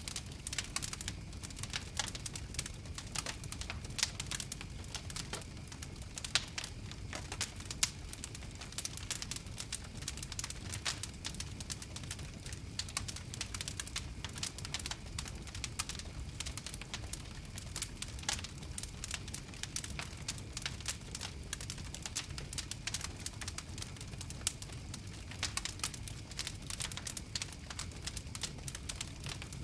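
Campfire crackling: a dense, irregular stream of small sharp pops and snaps over a low, steady rumble of the flames.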